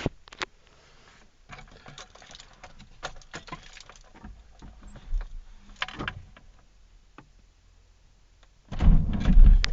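Faint clicks and small knocks, then near the end the UZAM 1.5 four-cylinder engine is started on partial choke and catches with a loud, low sound.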